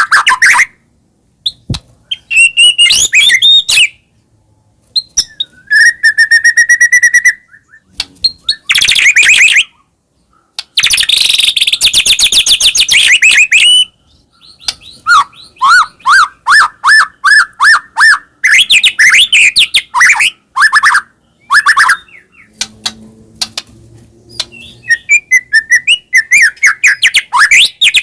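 White-rumped shama (murai batu) singing a loud, varied song: whistled phrases, fast trills and runs of repeated rising notes, broken by short pauses.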